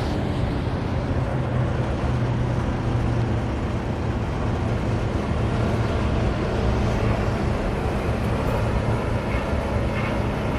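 Steady vehicle noise from passing traffic, with a low engine hum running under a wash of road noise.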